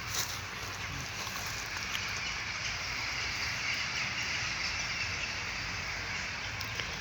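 Small birds chirping faintly over a steady outdoor background hum.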